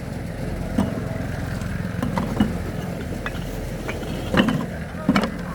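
A small engine running steadily, with a few sharp knocks and clanks over it.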